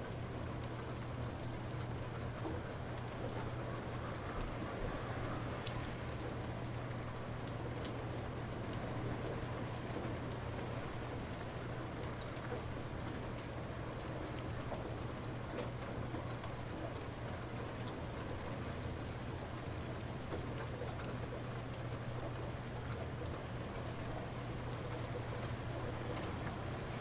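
Light rain falling steadily, with scattered single drops ticking on a surface, over a steady low hum.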